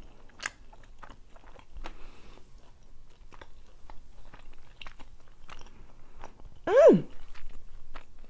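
Close-miked chewing of rotisserie chicken: a run of small wet clicks and smacks of the mouth. Near the end there is a short hummed vocal sound that rises and then falls in pitch.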